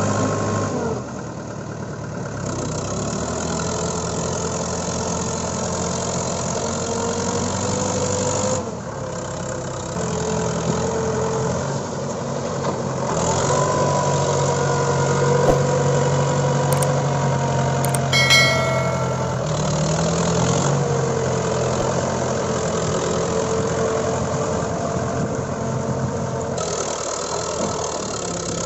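Mahindra 575 DI tractor's diesel engine running, its revs rising and falling, with a brief high-pitched tone about two-thirds of the way through.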